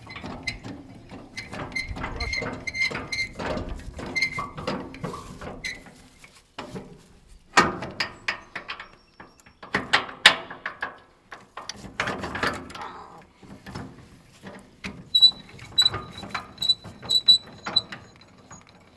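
Irregular metallic clanking and rattling with ratchet-like clicks, some strikes ringing briefly, from trailer hitch gear (chains, hitch and straps) being handled.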